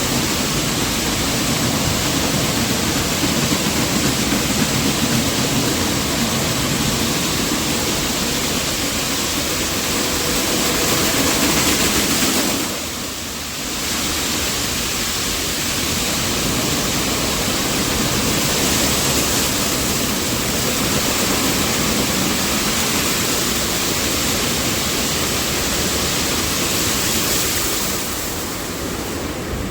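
Automatic car wash running over the car, heard from inside the cabin: a steady loud rushing noise, dipping briefly twice.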